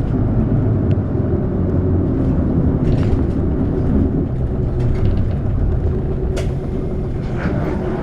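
Diesel city bus heard from inside the cabin: a steady engine and road rumble, with one sharp click about six and a half seconds in.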